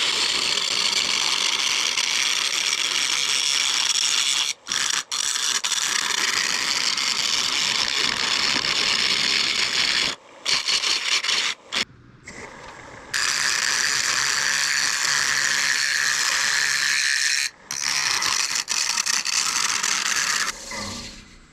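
Turning tool cutting a spinning mesquite blank on a wood lathe: a loud, steady rasping hiss of the cut, chattering as the edge meets the bowl's gapped, irregular rim. It stops briefly a few times where the tool comes off the wood, and ends shortly before the close.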